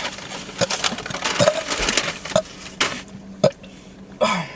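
Scattered clicks and short rustles at irregular intervals, like small items and packaging being handled on a table.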